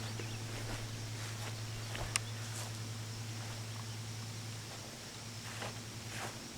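A steady low electric hum, with faint outdoor ticks and rustles and one short, sharp high chirp about two seconds in.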